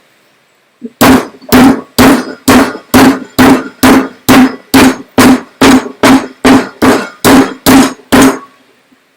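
Raw beef shoulder being pounded with an old-fashioned hand implement to tenderise it: about seventeen steady, even blows, roughly two a second, each a sharp knock with a short low ring from the board or counter beneath.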